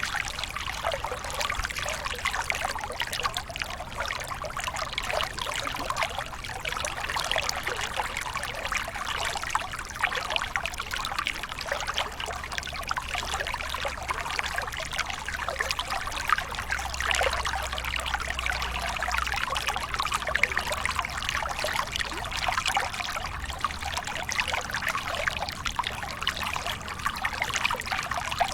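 Small waterfall: water splashing and trickling steadily, a dense even patter with no pauses.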